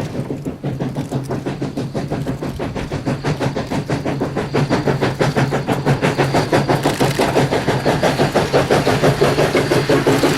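Everett Railroad 2-6-0 No. 11 steam locomotive working, its exhaust chuffing in a fast, even beat of about five a second over a steady low hum, growing louder as it draws closer.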